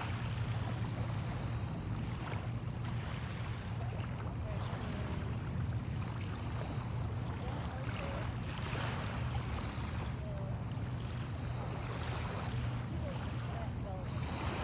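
Small bay waves washing in, swelling every couple of seconds, over a steady low hum.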